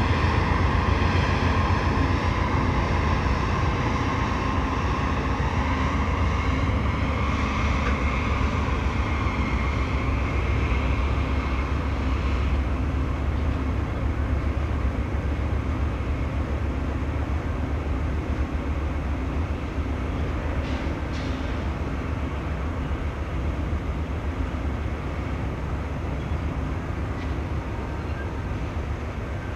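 Freight train rolling across a steel railroad bridge. The diesel locomotives' engine sound fades over the first dozen seconds, leaving the steady low rumble of hopper and tank cars passing over the bridge.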